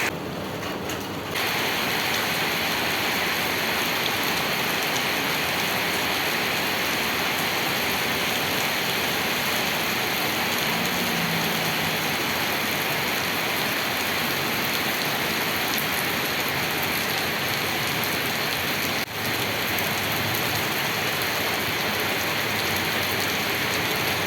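Rain falling steadily on the ground and puddles, an even hiss with no break in its texture. It is a little quieter for the first second or so, and it dips for a moment about five seconds before the end.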